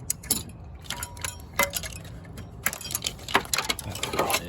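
Irregular sharp clicks and light clinks of hand work in an engine bay, as cables and plastic connectors are unhooked, with a short scrape near the end.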